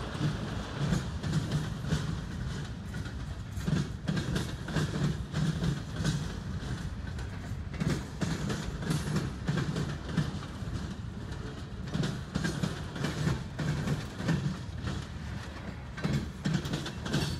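Freight train of boxcars and tank cars rolling past at close range: steel wheels clattering over the track in a continuous run of irregular knocks over a steady low rumble.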